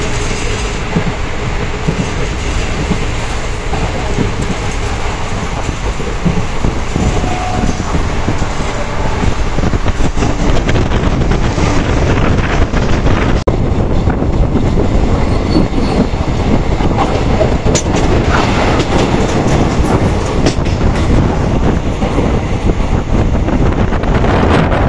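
Indian Railways passenger coach running at speed, heard from inside the coach: a steady rumble with the clatter of wheels on the track. It gets a little louder and more clattery from about halfway through.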